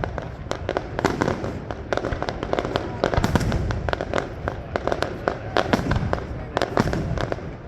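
Fireworks display: a rapid, continuous string of bangs and crackles, several a second, over a low rumble.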